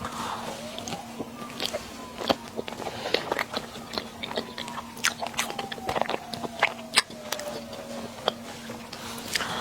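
Close-up eating sounds: chewing and biting, with many small irregular clicks and smacks of the mouth. A faint steady hum runs underneath.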